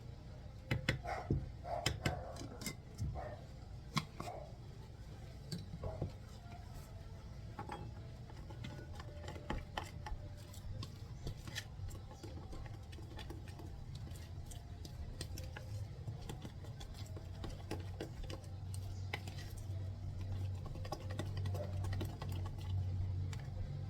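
Kitchen handling sounds while seasoning fish: light clicks, taps and clinks of utensils and containers, busiest in the first few seconds, over a steady low hum that grows louder in the second half.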